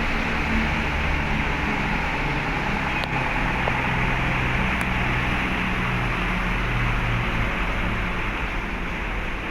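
Steady low engine drone with a constant fan-like hiss, typical of running engines and machinery on a ship's vehicle deck. The hum shifts slightly in pitch about seven seconds in.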